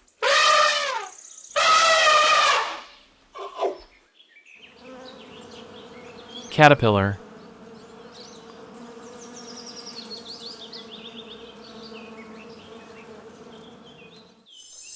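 An elephant gives two loud calls in the first three seconds. Then a steady droning buzz like an insect's wing hum runs for about ten seconds, giving way to a high thin tone near the end.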